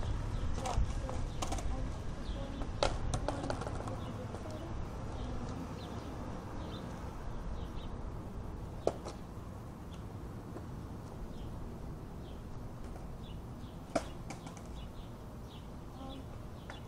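Small birds chirping faintly over a low rumble that fades during the first few seconds, with a few sharp knocks, the loudest about 3, 9 and 14 seconds in.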